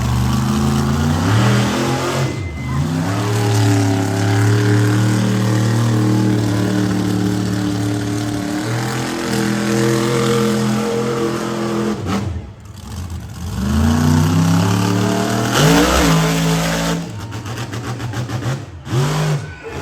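Monster truck engine revving hard, its pitch rising and falling as the throttle is worked. It drops off briefly about twelve seconds in and then climbs again, with a loud rushing blast of noise around sixteen seconds.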